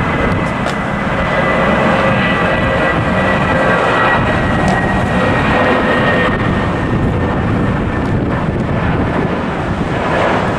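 JetBlue airliner's jet engines at takeoff power: a loud, steady roar with a thin high whine over it that drifts slightly lower in pitch.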